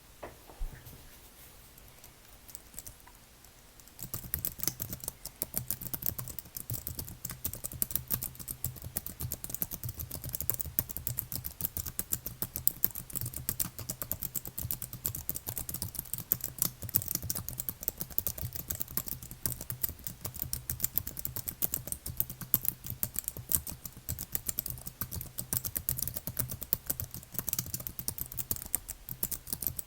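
Computer keyboard being typed on: a few scattered keystrokes, then fast, continuous typing from about four seconds in.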